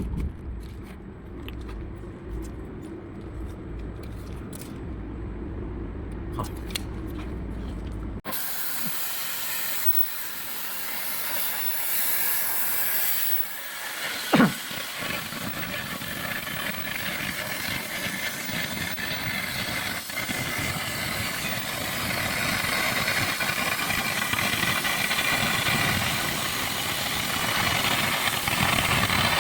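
Low machine hum with a few clicks. About eight seconds in, the cutting torch of a CNC cutting machine starts a loud, steady hiss that runs on, broken once by a sharp knock around the middle.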